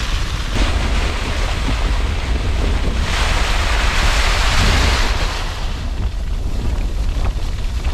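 Storm-force wind blowing over and against the tent, a continuous rush with low buffeting on the microphone. A louder gust swells about three seconds in and dies away about two seconds later.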